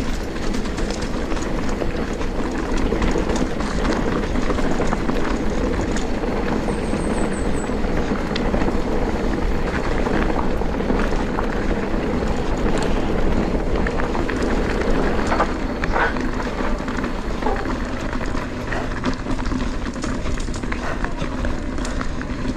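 Mountain bike rolling down a dirt trail: a steady rumble of tyres on the ground and rattling of the bike, with wind buffeting the GoPro's microphone and scattered clicks and knocks.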